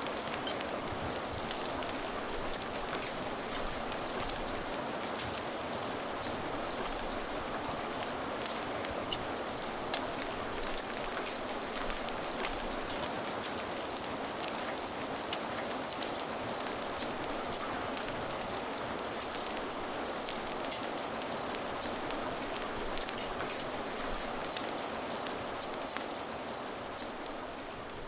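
Steady rain falling, a dense hiss with many fine drop ticks, easing slightly near the end.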